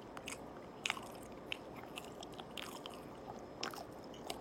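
A person chewing a bite of soft spinach and cheese quiche, with faint scattered wet mouth clicks.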